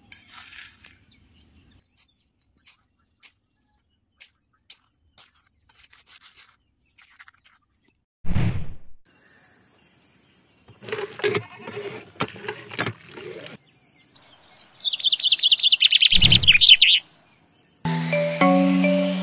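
Outdoor birds and insects: a steady high insect whine, and a fast run of chirping notes that is the loudest sound, about 15 seconds in. Faint scattered taps and two short thumps come from small handwork on gritty ground.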